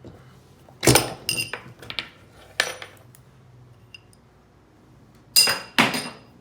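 Metal pieces knocking and clinking together with a bright ring: a cluster of strikes about a second in, one more a little later, and two close strikes near the end.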